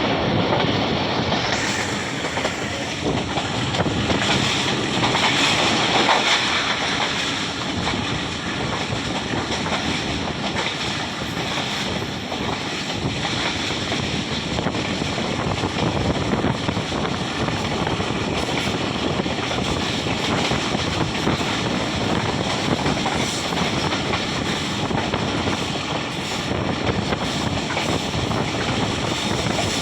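Steady rushing noise of a moving passenger train heard from aboard, with wind blowing on the microphone.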